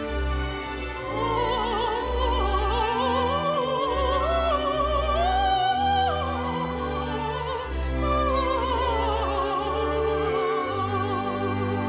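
Operatic solo voice singing a classical piece with wide vibrato over orchestral accompaniment. The melody enters about a second in, climbs to a held high note around the middle, then descends.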